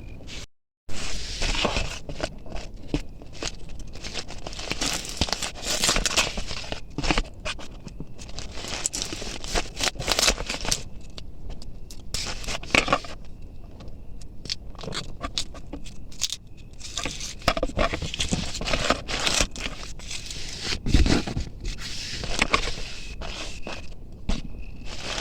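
Knife chopping food, a quick irregular run of cuts and scrapes.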